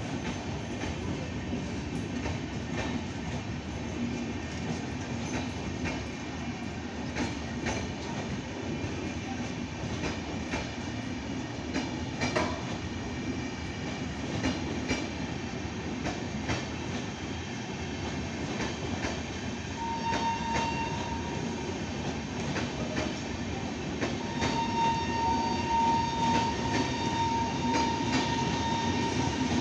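Godan Express passenger train pulling out of the station and rolling past, its wheels clicking over the rail joints over a steady rumble. A steady high squeal sounds briefly past the midpoint, then again for the last several seconds as the train gets louder.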